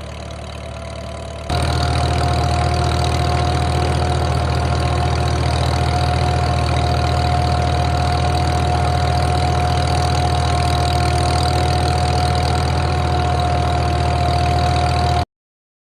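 Tractor engine running steadily, with a steady high-pitched whine over it. The sound steps up louder about a second and a half in and cuts off abruptly near the end.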